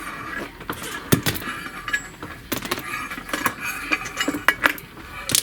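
Metal valve rocker arms from a Mercedes A140 cylinder head clinking and knocking against each other and other metal parts as they are taken off the rocker shaft, a string of irregular light metallic clicks.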